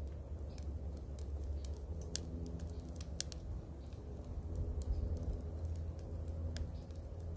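Irregular sharp clicks and crackles over a steady low rumble.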